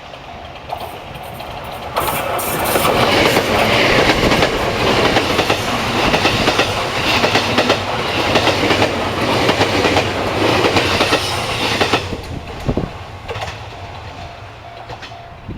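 An electric train on the Sasebo Line passing close by, its wheels clattering in a steady rhythm over the rail joints. The sound comes in suddenly about two seconds in and dies away after about twelve seconds.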